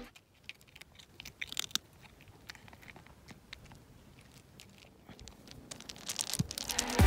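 A gap in the background music: the music fades out at the start, leaving only a few faint scattered clicks and crackles, and fades back in near the end.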